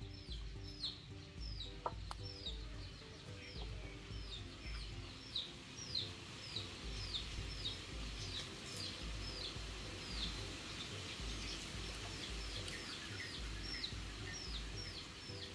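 A bird chirping over and over in short falling notes, two or three a second, over soft background music with a steady low beat.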